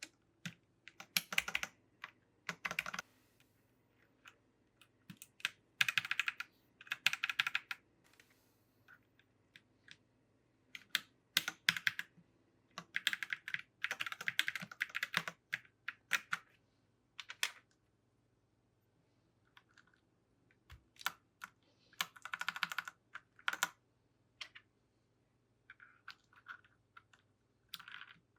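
Mechanical keyboard keys clacking in short runs of rapid presses, with pauses of a few seconds between the runs.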